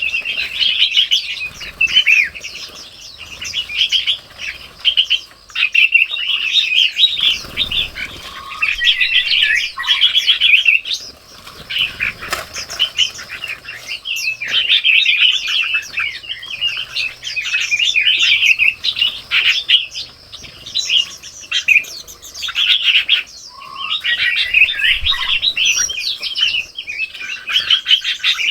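Many small birds chirping and twittering continuously in a busy, high-pitched chorus with short pauses, with a brief low rustle about seven seconds in.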